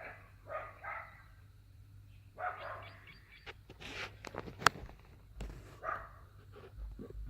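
A dog barking in short bursts, a few times near the start and again about two and a half seconds in, followed by a run of sharp clicks and knocks, the loudest a single sharp snap.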